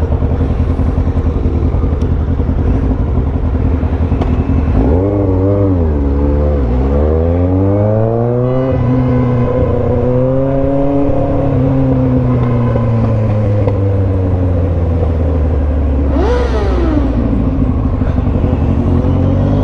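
Motorcycle engine being ridden hard, its pitch rising and falling as the rider revs through the gears, with a quick sharp rev and drop a little before the end. A steady low rushing noise runs under it throughout.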